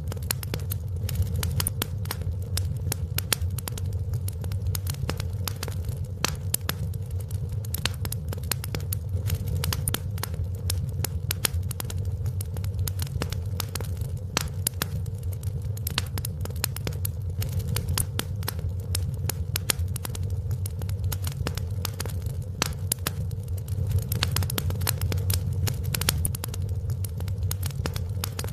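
Wood fire in a fireplace crackling: frequent sharp pops and snaps, several a second, over a steady low rumble of the burning fire.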